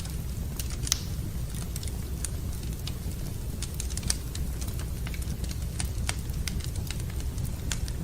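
Wood fire crackling in a fireplace: frequent sharp pops and snaps over a steady low rumble, the loudest pops about a second in and about four seconds in.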